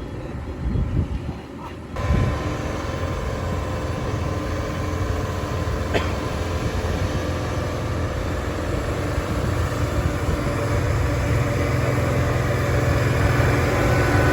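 A vehicle engine running steadily, with a sudden step up in level about two seconds in and then growing slowly louder.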